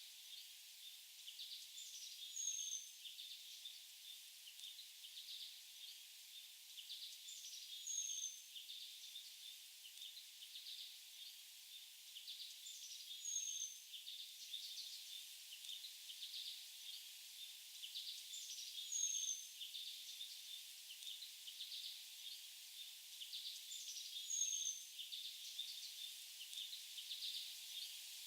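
Forest birds chirping, with a short, high, slightly falling call over a cluster of quicker chirps. The pattern comes round in the same way about every five and a half seconds.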